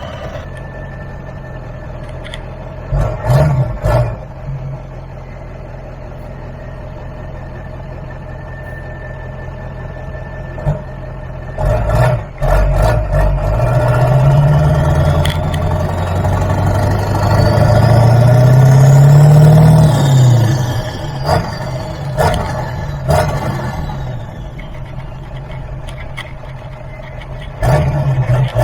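7.3 Powerstroke V8 turbo diesel heard from inside the truck's cab with the windshield out, really loud. The engine pulls steadily, and about halfway through its pitch climbs as it accelerates, then falls back; sharp thumps come several times.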